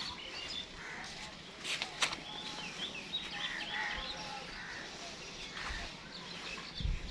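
Birds chirping and calling over and over, with two sharp clicks about two seconds in and a low rumble starting near the end.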